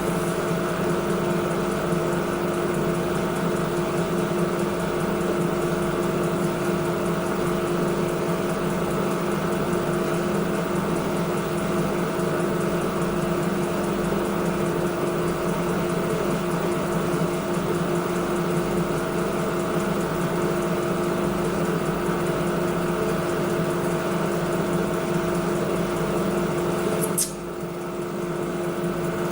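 Washing machine running with a steady mechanical hum made of a few constant tones. About 27 seconds in there is a short click and a brief drop in level, then the hum carries on.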